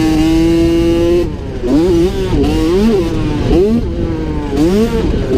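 Small two-stroke 50cc motocross bike engine heard close up from its onboard camera: held at a steady high pitch for about a second, then revving up and down again and again as the throttle is opened and rolled off.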